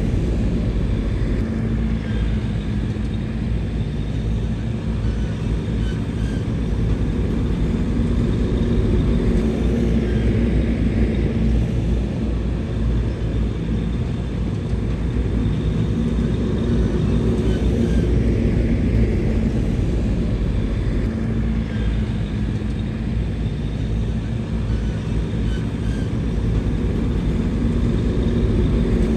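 Bulldozer's heavy diesel engine running steadily under load with a deep rumble, its pitch and level swelling slightly now and then as it works.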